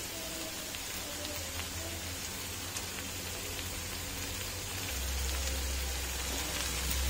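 Chopped ivy gourd sizzling steadily as it fries in an open pan, with faint scattered crackles. A low hum underneath grows louder about five seconds in.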